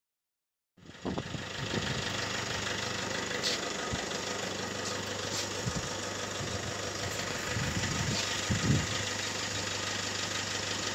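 Honda 600's small air-cooled two-cylinder engine idling steadily, cutting in abruptly after a brief silence. A couple of short low thumps stand out about eight and a half seconds in.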